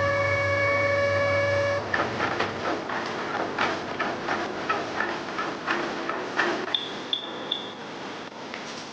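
Workshop tool sounds: a steady pitched whine cuts off about two seconds in. Irregular metallic taps and clicks follow, with three short high beeps near the end.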